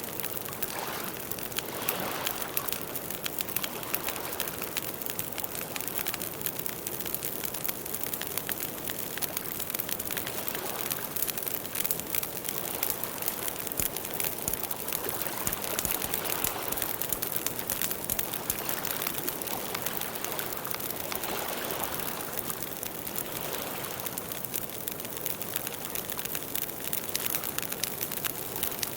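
Campfire burning: wood crackling with a dense, continuous run of small pops and ticks over a soft rush of flame.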